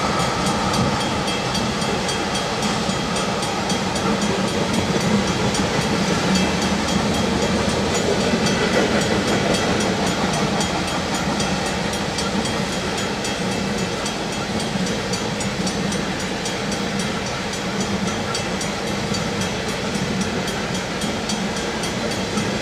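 Ethanol tank cars of a freight train rolling steadily past, a continuous rumble of steel wheels on the rails.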